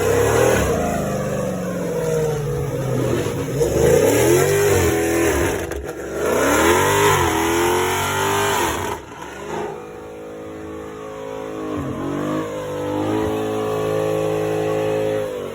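Car engine revving hard and repeatedly, its pitch swelling up and dropping back several times, with a loud hissing rush over it. About nine seconds in it falls to a quieter, steadier run with a couple of short blips.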